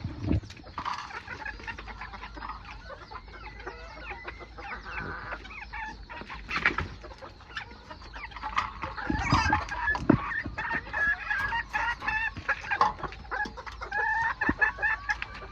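Old English game bantam chickens clucking and calling as they feed, with many short sharp taps mixed in.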